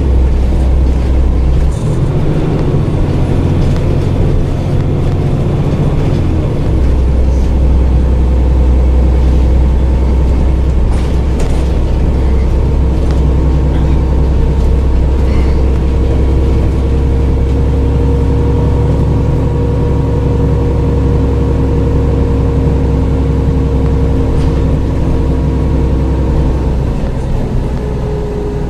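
Dennis Trident double-decker bus engine running under way, its note changing about two seconds and six and a half seconds in, with a thin steady whine rising slightly in pitch through the middle. The sound eases off near the end.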